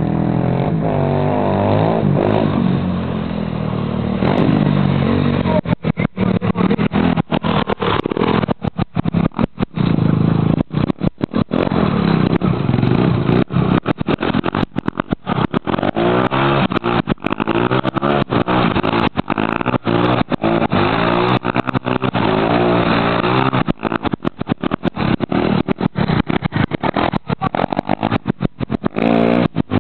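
Pit bike's small single-cylinder engine running and revving up and down repeatedly as it is ridden. The sound cuts out briefly many times.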